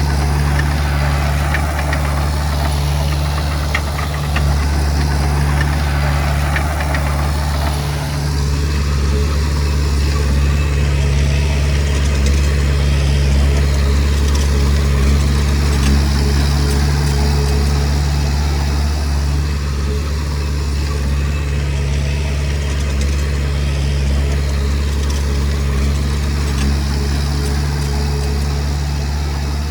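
Diesel engine of a Komatsu D20P bulldozer running steadily with a deep, even drone. For about the first eight seconds there is extra rattling, scraping noise with a few clicks over it, which then drops away and leaves the engine alone.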